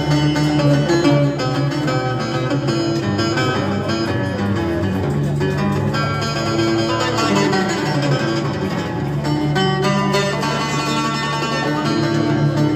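Live music played on plucked string instruments, a run of quick notes over a steady low bass line, with no pause.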